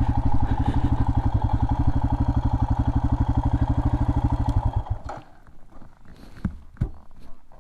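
Royal Enfield Himalayan's single-cylinder engine idling with an even pulsing beat, then switched off about five seconds in, followed by a few light clicks and knocks.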